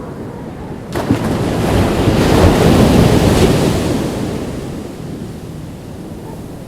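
Ocean wave breaking on a beach: a sudden crash about a second in that swells into a rushing wash of surf, then fades over a couple of seconds.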